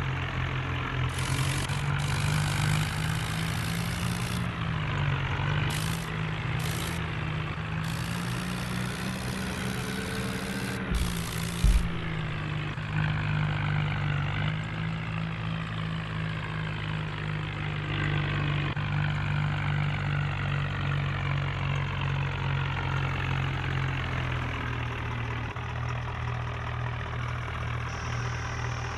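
Diesel tractor engine running steadily, its pitch dipping and rising slightly, with two short thumps a little before halfway.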